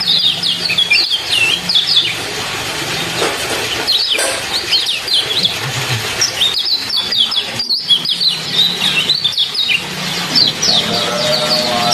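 Small songbird giving rapid bursts of short, high, downward-sweeping 'ciak ciak' chirps over a steady trickle of running water.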